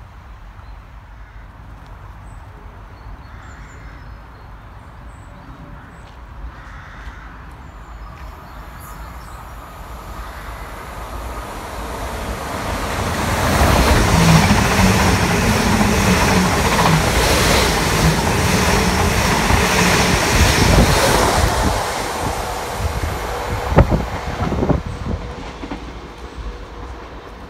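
Electric multiple unit passing along a station platform. A rush of wheel and air noise builds over a few seconds, holds loud for about eight seconds with a low hum as the carriages go by, then fades, with a few sharp clicks near the end.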